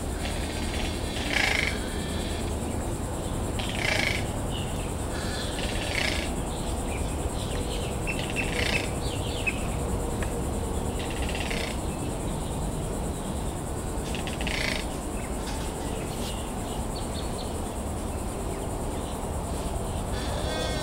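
Two birds calling at each other in the undergrowth: short loud calls, each well under a second, come every two to three seconds, about six in all, over steady background noise.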